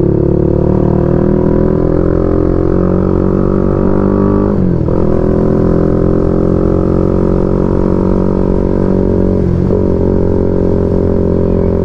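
Motorcycle engine running under way, a steady drone that climbs slowly in pitch as the bike gains speed. It dips briefly twice, about four and a half and nine and a half seconds in, as the rider shifts up a gear.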